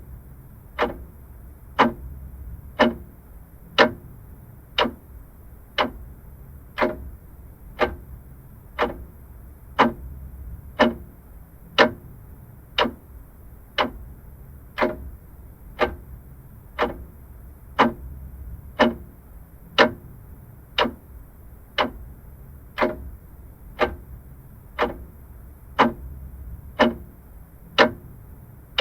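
Vintage mechanical clock ticking steadily at about one tick a second, over a faint low hum.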